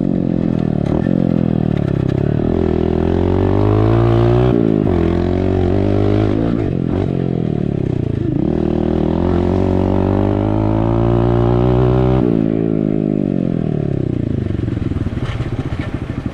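Dirt bike engine under way, its revs climbing and falling several times as the throttle is worked, with a few sharp drops, then settling to lower revs near the end.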